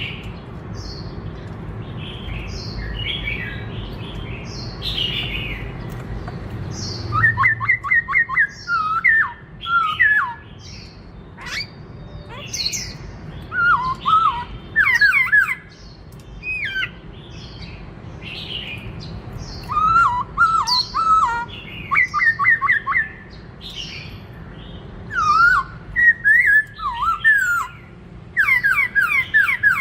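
Black-throated laughingthrush singing a varied song. For the first seven seconds it gives soft, high, falling chirps over a low background rumble. Then the rumble drops away and loud phrases of quick, looping whistled notes follow, separated by short pauses.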